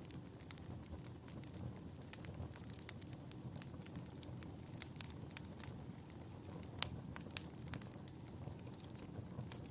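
Fireplace fire burning with a low steady rumble and irregular sharp crackles and pops of the burning wood, one louder pop near the middle.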